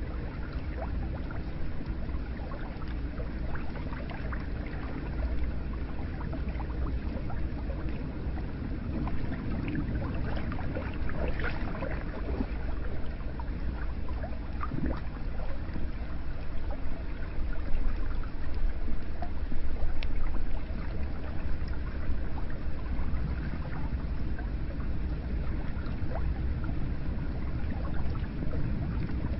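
Hot spring water running into an onsen bath: a steady wash of flowing water with small splashes and drips scattered through it.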